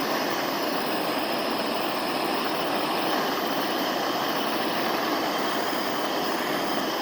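Small handheld gas torch burning with a steady, even hiss, its flame heating a dented two-stroke exhaust pipe that is held under air pressure so the dent can pop out.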